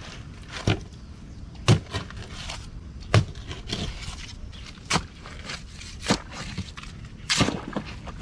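A digging tool striking into mangrove mud again and again, about six sharp chops spaced roughly a second apart, as a mud crab burrow is dug open.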